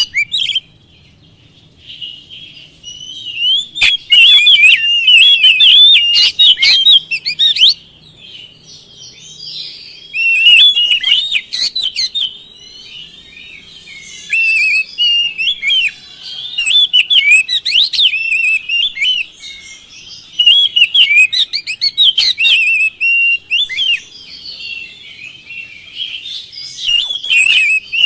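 Oriental magpie-robin (kacer) singing loud, rapid phrases of varied whistles and chattering notes, in bursts separated by short pauses, as used to provoke another kacer into song.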